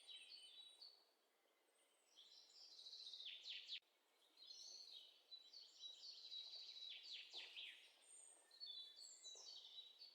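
Faint birdsong: repeated high chirps, short trills and quick falling notes, with a lull about a second in.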